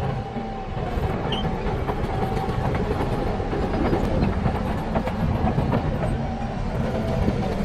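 Bulldozer working: a steady diesel rumble with the clatter of its steel crawler tracks.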